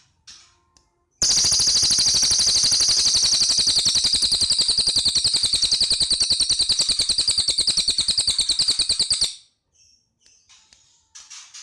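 Cililin bird singing one long, very fast rattling trill of about eight seconds, the rapid machine-gun-like 'AK 47' song, between softer scattered chirps.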